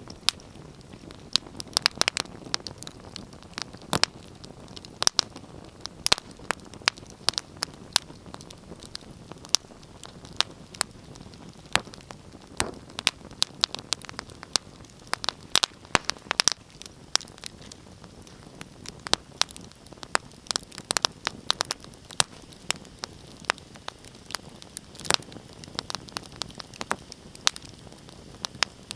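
Wood fire crackling, with many sharp, irregular pops and snaps over a low steady hiss.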